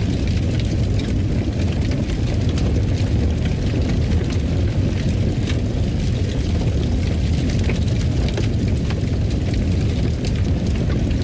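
Fireplace fire burning: a steady low rumble of flames with frequent small, sharp crackles and pops scattered through it.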